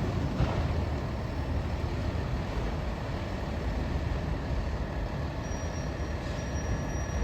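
Train rolling past: a steady rumble of wheels on rail.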